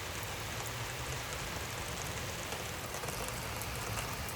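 Heavy thunderstorm rain pouring down, a steady hiss of rain falling on surfaces.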